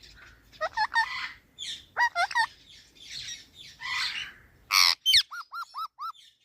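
Pet parrot chattering at its own reflection in a mirror: repeated chirps, harsh squawks and bending whistled calls, with a loud harsh squawk about five seconds in followed by a quick run of five short chirps.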